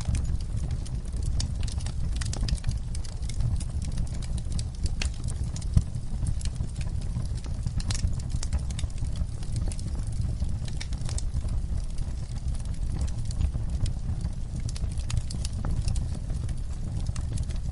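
Campfire burning: wood crackling with irregular sharp pops and snaps over a steady low rumble of the flames.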